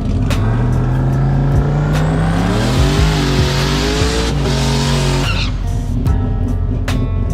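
Drag car's engine revving hard with rising pitch as it pulls down the track, mixed with a song. The car sound cuts off abruptly a little after five seconds in, leaving the music.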